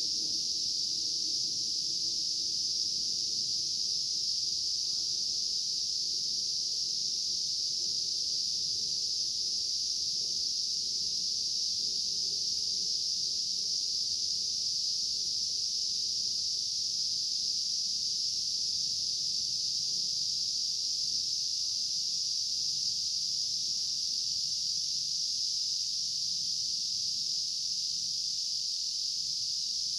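A steady insect chorus, a high, even shrill that runs on without a break.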